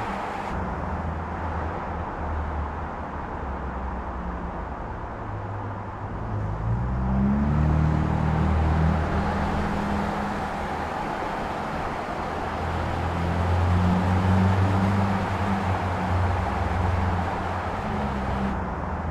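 Car engine running under way with steady road noise; it speeds up with a rising pitch about seven seconds in, then picks up again around thirteen seconds.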